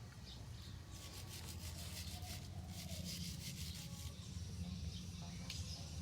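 Stiff brush scrubbing motorcycle engine parts with petrol, in quick back-and-forth strokes that come in two spells.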